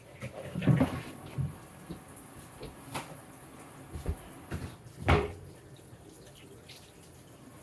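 Kitchen clatter at a sink: a string of sudden knocks and clinks from cookware being handled, loudest about a second in and again about five seconds in, over a faint water hiss.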